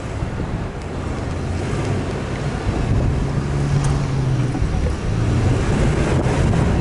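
Off-road vehicle driving with its engine running as a steady low hum, and wind buffeting the microphone.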